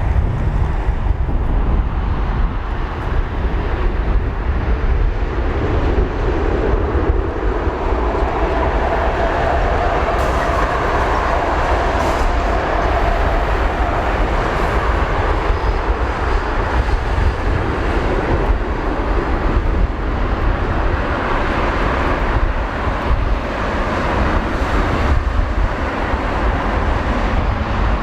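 Boeing 777-300ER's GE90 turbofan engines running near idle as it lines up on the runway, a steady rumbling jet noise with a faint held tone in the middle.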